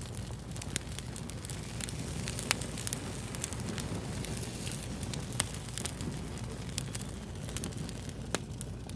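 Wood fire crackling: a steady hiss with frequent, irregular sharp pops and snaps, two of them louder, about a third of the way in and past the middle.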